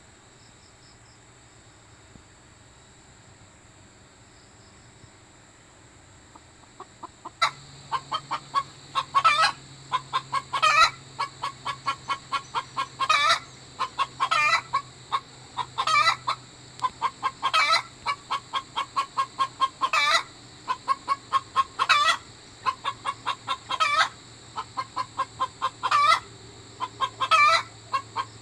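Native hen's egg-laying cackle: a quick run of clucks building into one long loud squawk, repeated about every two seconds, starting about seven seconds in. Before it only a faint steady insect hum is heard.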